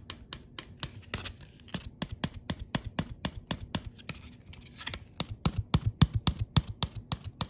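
Thin plastic Du-Bro park-flyer ski being rapped against a hard surface in a quick series of sharp clicking taps, about four or five a second and louder near the end: a shock test of the ski's glued crack.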